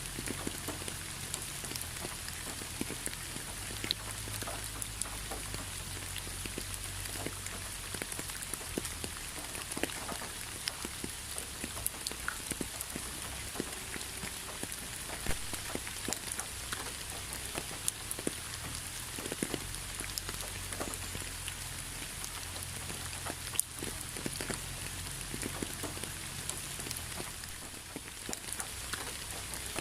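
Steady rain, with many single raindrops ticking sharply against a surface through a constant hiss of falling rain.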